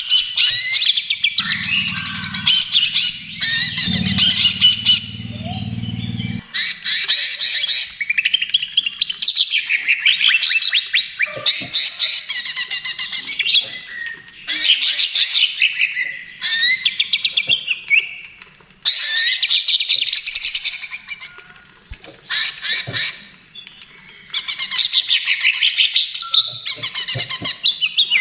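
Cucak ijo (green leafbird) singing in long, rapid runs of varied chattering notes and whistles, broken by short pauses every few seconds. A low hum sits under the song for several seconds early in the stretch.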